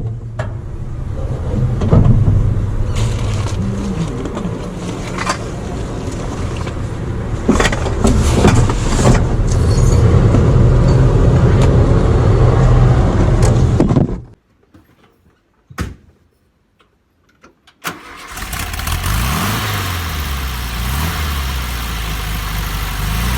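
Air-cooled Volkswagen Beetle 1303S flat-four engine running, with several sharp knocks over it. The sound drops to near silence for a few seconds past the middle, then the engine is heard again, its pitch rising and falling.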